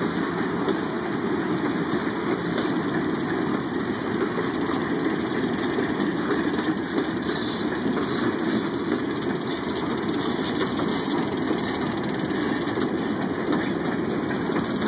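Passenger coaches of a passing train rolling by: a steady rumble of steel wheels on the rails.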